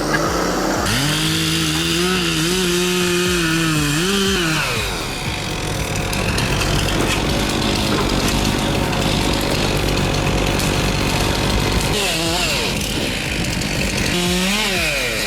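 Two-stroke chainsaw running at high revs, held fairly steady at first and then cutting. Near the end the throttle is blipped up and down several times.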